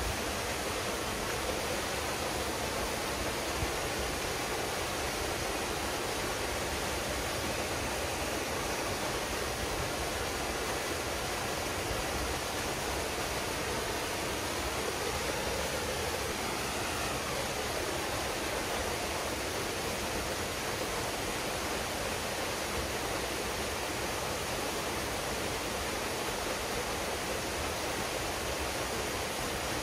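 Waterfall pouring steadily into a pool: a continuous, even rush of falling water.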